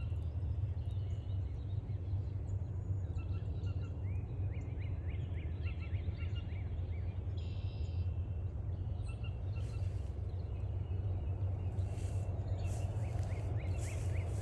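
Wild birds calling over a steady low rumble. Two runs of quick downward-sliding chirps, a few short buzzy calls, and footsteps on the trail from about ten seconds in.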